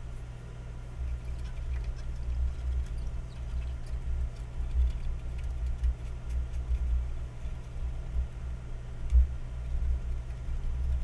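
A steady low hum with uneven low rumbling under it and a few faint scattered clicks.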